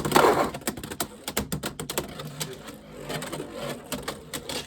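Beyblade X tops spinning in a plastic stadium, with rapid irregular clicking and rattling as they run around the bowl and tap the walls and each other.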